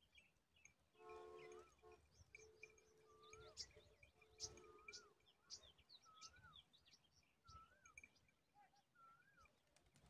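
Birds calling: one repeats a short rising-and-falling whistle about once a second, among scattered short high chirps. About a second in, a low steady drone with overtones sounds briefly.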